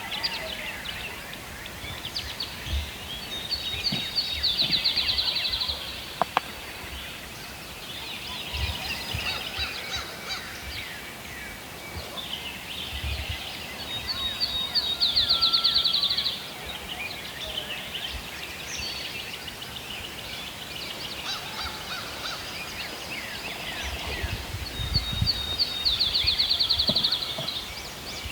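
Songbirds singing, with one bird repeating a short song that ends in a fast trill about every ten seconds, three times over a background of scattered chirps.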